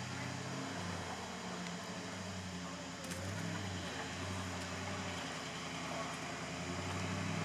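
Toyota Land Cruiser 80 series' 5-litre V8 engine working slowly over rough off-road ground. The engine note shifts up and down with the throttle and grows louder near the end.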